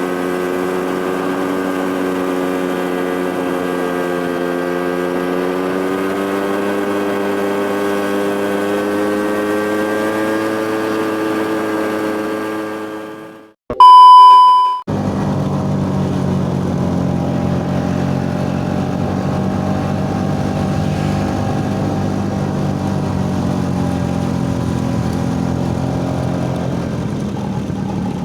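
An engine running steadily, fading out about halfway through. A loud, pure beep of about a second follows, and then another engine drones on steadily.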